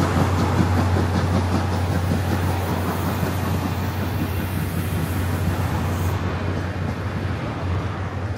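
A passenger train's coaches rolling past on the rails, the sound slowly fading as the end of the train goes by.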